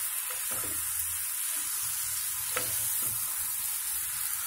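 Green capsicum pieces frying in oil and masala paste, sizzling steadily while a spatula stirs them through the pan, with a few light clicks of the spatula against the pan. The capsicum is being coated in the masala.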